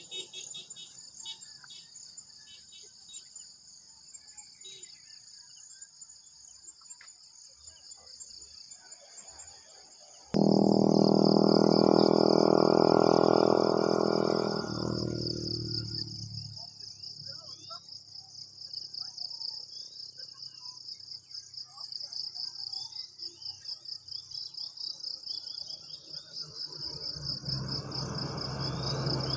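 Steady high-pitched chorus of crickets and other insects. About a third of the way in, a much louder pitched drone starts suddenly, holds for a few seconds and then fades away. A lower rumble builds again near the end.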